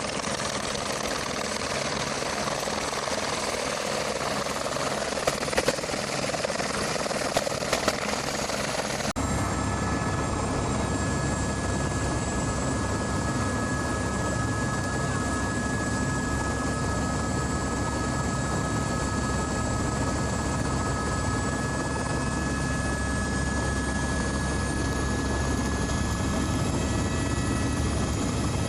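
Helicopter in flight: continuous rotor and engine noise. A few clicks come between about five and eight seconds in. Then the sound changes abruptly to a deeper rumble with several steady whines.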